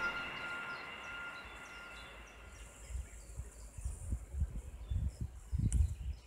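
Soft background music fades out over the first two seconds, leaving a rural field recording. A small bird chirps faintly and repeatedly in short high notes, while low, irregular wind rumble on the microphone comes and goes and is loudest near the end.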